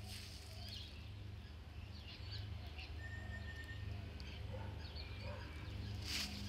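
Small birds chirping, with a few short held whistle notes, over a steady low hum. A brief hissing burst comes near the end.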